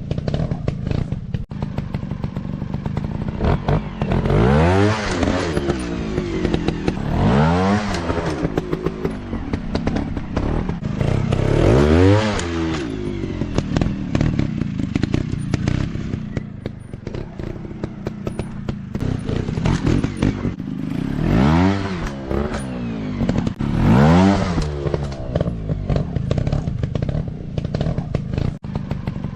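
Small dirt bike engine running, revved up and back down several times in quick surges, with clattering and scraping noises between.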